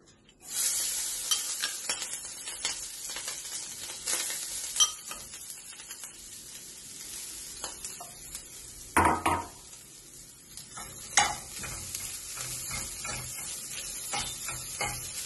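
Grated coconut sizzling in hot ghee in a frying pan, the hiss starting suddenly about half a second in as the coconut is tipped in. Scattered clicks and a few louder knocks and scrapes of a spatula against the pan, the loudest about nine seconds in, as the coconut is stirred.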